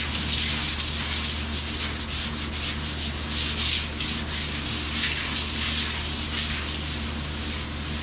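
Sandpaper worked back and forth by hand over old, gritty paint on a vehicle's hood, in quick repeated strokes, a few a second.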